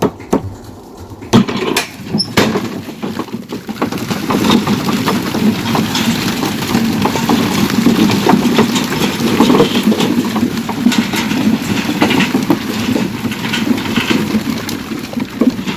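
A few knocks, then a Massey Ferguson tractor's diesel engine running steadily, growing louder a few seconds in and holding with a rough, crackling rumble.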